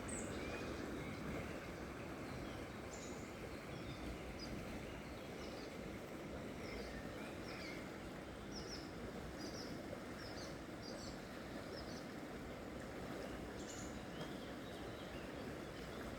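River water flowing steadily, with small birds giving many short, high chirps over it.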